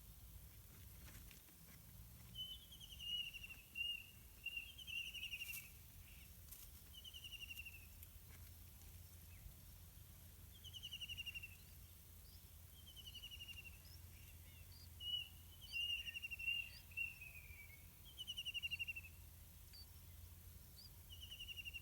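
Birds calling: a short buzzy call that falls in pitch repeats every couple of seconds, and twice a brief warbling chatter joins in, over a faint low hum.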